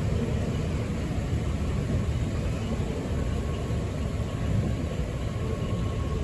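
Steady low rumble and hiss of the ride boat moving along its water channel through the greenhouses.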